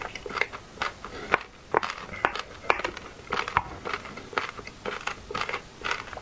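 Close-miked chewing of a soft, creamy milk dessert: wet mouth smacks and sharp clicks, irregular, a few each second. A spoon scoops through the dessert in a plastic box.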